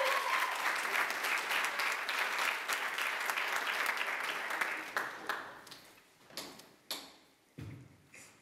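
Audience applauding: dense clapping that thins out about five seconds in, leaving a few scattered single claps near the end.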